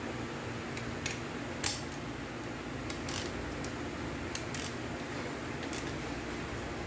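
Scattered light clicks and ticks, irregular and about ten in all, the sharpest a little over a second in, over a steady background hum.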